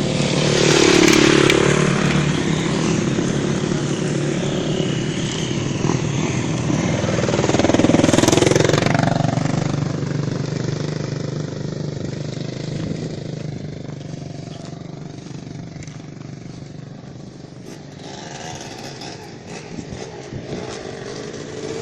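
Motocross bike engines revving, with two bikes passing close by, about a second in and again about eight seconds in, then a quieter engine drone.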